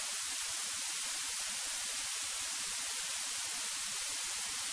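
Steady hiss on the cockpit intercom audio feed, strongest in the upper range, with no distinct engine note.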